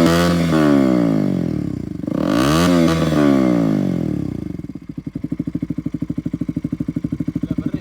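KTM RC 200's single-cylinder engine revved twice, its pitch dropping after each blip, then settling into a steady pulsing idle about five seconds in, with its exhaust in water.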